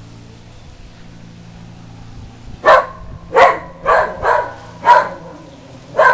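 Whippet barking in a short volley: six sharp barks over the second half, after a couple of seconds with only a faint steady low hum.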